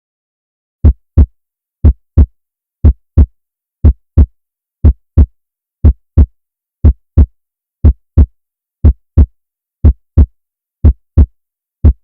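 Heartbeat sound effect: paired deep thumps, lub-dub, repeating steadily about once a second against silence.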